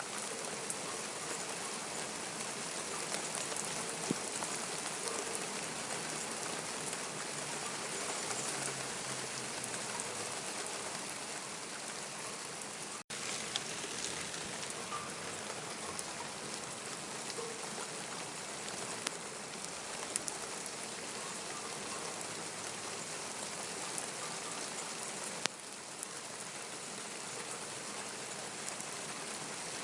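Steady rain falling and pattering on surfaces, with scattered sharper drop hits. The sound cuts out for an instant about halfway through.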